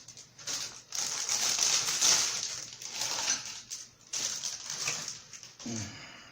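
Loud, crackly crunching of tortilla chips being bitten and chewed close to the microphone, in irregular spells.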